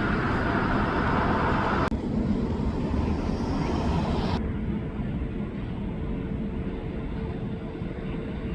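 Jet airliner engine noise, a loud steady rumble whose higher part drops away abruptly about two seconds in and again about halfway through, leaving a lower rumble with a faint steady hum.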